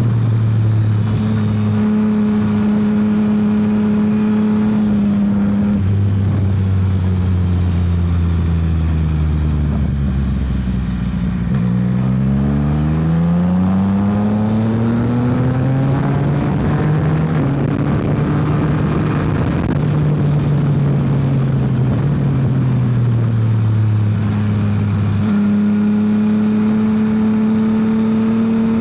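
Yamaha XSR900's inline three-cylinder engine heard from the rider's seat at speed, its note stepping up and down with gear changes. About twelve seconds in the revs climb steeply under acceleration, then ease off slowly before jumping up again near the end.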